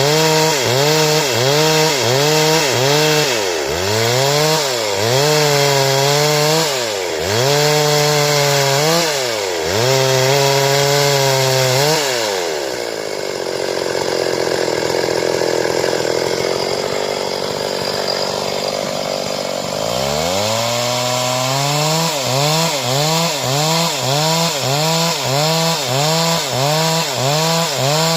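Stihl chainsaw cutting wood into boards, its engine pitch dropping and recovering in a steady rhythm of about one swing a second as the chain bites and frees. It dips deeper every few seconds. Near the middle the pitch sits lower and steadier for several seconds before the rhythmic swings resume.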